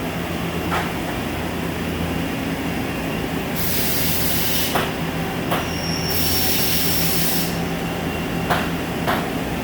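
CNC lathe and robot work cell running with a steady hum, broken by two bursts of hissing about a second long each and several sharp clicks.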